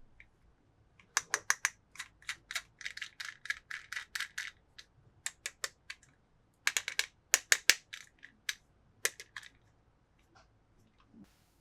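Hard, sharp clicks and taps from toy cars and their plastic packaging being handled during unboxing. They come in two quick runs of many clicks, with a few single ones between.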